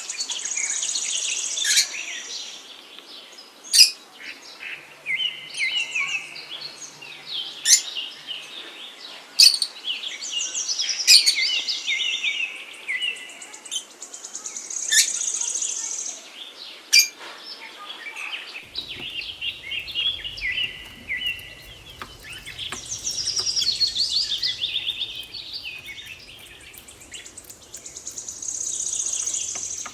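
Birds chirping and singing: repeated trilled, warbling phrases every few seconds, with sharp single chirps between them.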